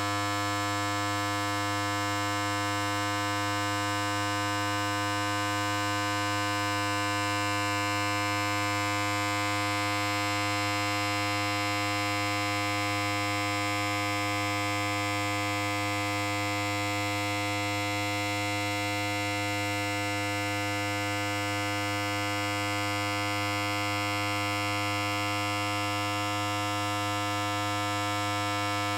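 Electric hair clipper running steadily: a constant low buzz with many overtones that does not change.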